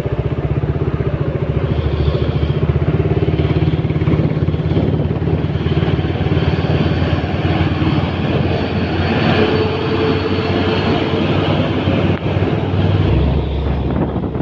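Truck engine running steadily and loudly with an even, rapid pulsing, the low rumble shifting about thirteen seconds in.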